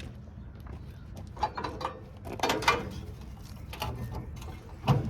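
Metal parts of a scrapped light fixture knocking and rattling as they are handled, with several sharp clanks, over a low steady hum.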